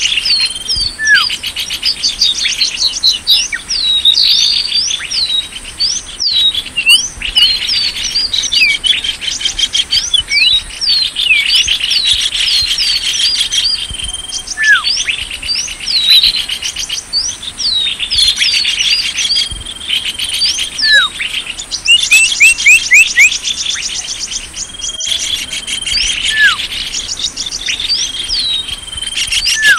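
Small songbirds chirping and twittering, played as a bird-luring call (suara pikat) for small birds: dense, fast, high chirps and sweeping whistles, with a held high note that recurs every ten seconds or so and a quick run of rapid notes a little past the middle.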